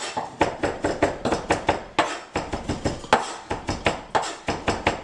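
Kitchen knife rapidly chopping and mincing garlic on a cutting board, steady knocks about five or six a second.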